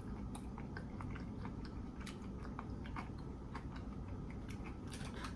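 Close-miked chewing of fried food with the mouth closed: a steady run of small, scattered clicky crunches.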